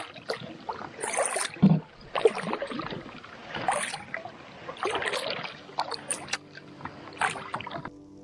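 Canoe paddle strokes in lake water, a splash and drip roughly once a second, with sharp little knocks among them. The sound cuts off suddenly near the end, and faint steady music tones take over.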